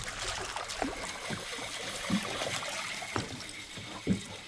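Water lapping and trickling against a small boat's hull, with several soft slaps.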